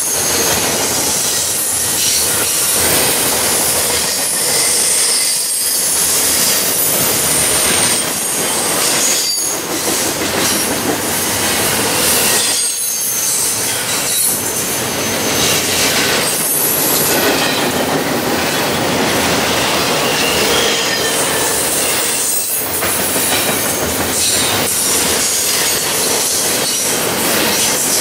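Double-stack intermodal freight train's loaded well cars rolling past close by: a steady, loud rumble and rattle of wheels on rail. High wheel squeal comes and goes, with brief dips in the noise as cars go by.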